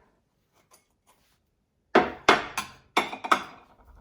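Dishes knocking and clinking against each other and a hard surface as they are set down and stacked, five or six sharp hits in quick succession starting about halfway through.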